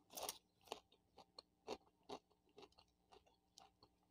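Faint, close-miked chewing of a bite of fried empanada: short, irregular crunches about every half second, loudest in the first second.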